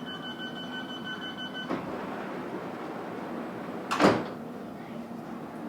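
Metropolitan line S8 stock train's door-closing warning: a quick run of high beeps that stops with a knock as the sliding doors shut, over the train's steady low hum. About four seconds in comes a loud, short burst of noise, the loudest sound here.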